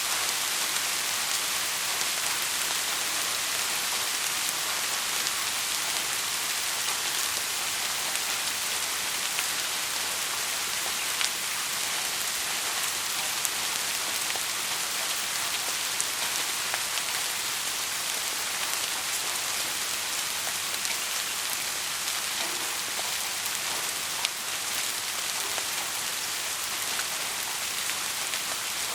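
Heavy rain falling steadily: an even, dense hiss weighted to the high end, with the odd louder drop tick standing out.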